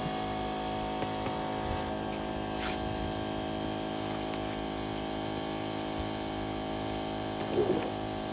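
A motor running at a constant speed: a steady hum made of many even tones. A brief louder sound comes near the end.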